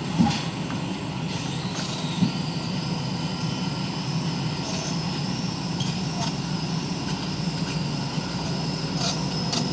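A vehicle engine running steadily at a low hum, with two light knocks near the start and a thin high whine that comes in about two seconds in.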